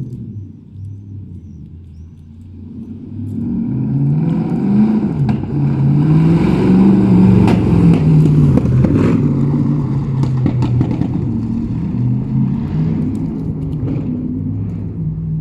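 Mercedes-AMG M156 6.2-litre V8 in a W203 sport coupe, running quietly for the first few seconds, then growing much louder about three seconds in as it revs, its pitch rising and falling repeatedly.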